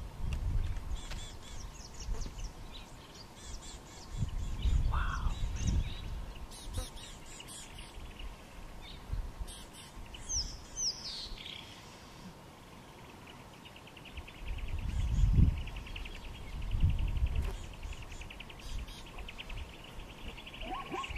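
Birds chirping and calling, with a pair of quick falling whistles about halfway through and a fast, even trill through the second half. Low rumbles come and go several times underneath.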